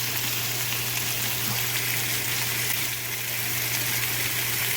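Food sizzling steadily in a hot pan, an even frying hiss, with a steady low hum underneath.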